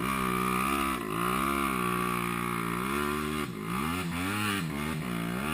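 Enduro motorcycle engine revving hard under load, its pitch dropping and climbing again several times as the throttle is worked.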